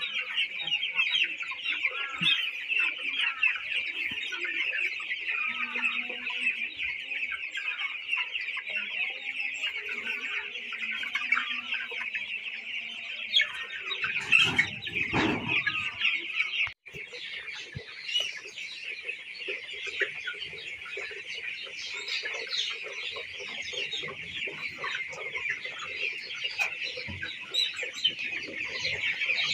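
A flock of broiler chickens, many birds peeping and clucking at once in a constant high-pitched din, with a louder, lower noise about halfway through.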